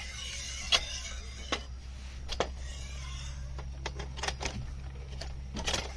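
Metal pole being slid through the aluminum frame of a chainsaw mill, scraping in two stretches, with several sharp knocks and clinks of metal on metal.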